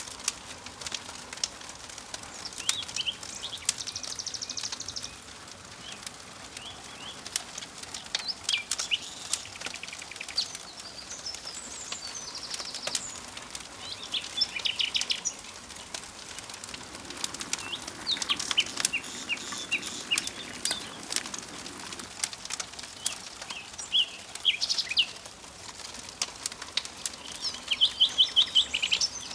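Forest songbirds singing short trilled and chirping phrases every few seconds, over a faint steady outdoor background with many sharp scattered clicks.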